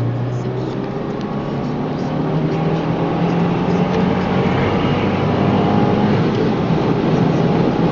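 Car engine heard from inside the cabin, accelerating: its note climbs in pitch over the first few seconds and grows steadily louder, over a hiss of road and wind noise.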